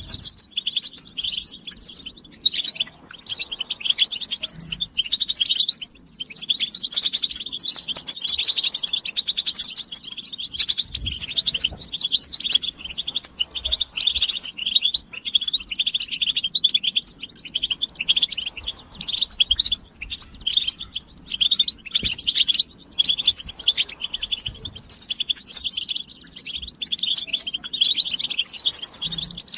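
European goldfinch singing: a long, fast run of twittering, tinkling phrases, with a brief pause about six seconds in.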